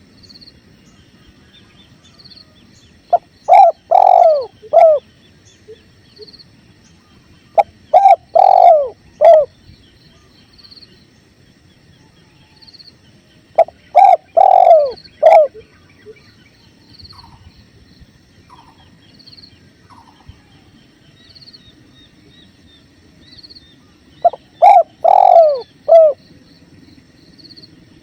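Spotted dove cooing: four phrases of several low, falling coos, spaced several seconds apart. Under them runs a steady low rush of river water, and a faint high chirp repeats about every second and a half.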